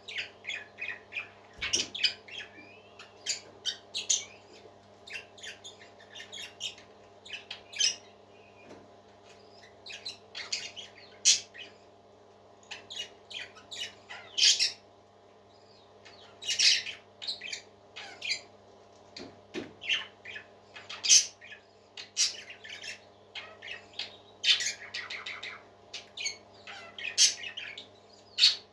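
Parakeets chirping and squawking: many short, high calls in quick, irregular succession, over a faint steady low hum.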